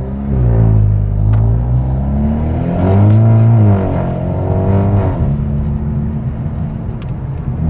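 A car engine revving, its pitch rising and falling several times, then settling into a steady drone about five seconds in.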